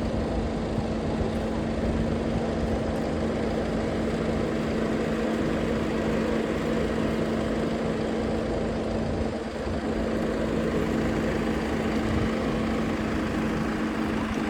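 Motor vehicle engine running steadily while riding along: an even, unbroken hum with one constant tone over road noise.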